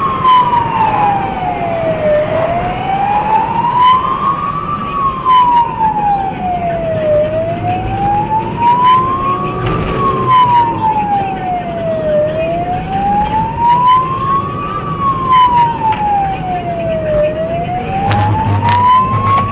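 Emergency vehicle siren wailing, its pitch rising and falling slowly in a steady cycle of about five seconds, with scattered knocks and clicks in the background.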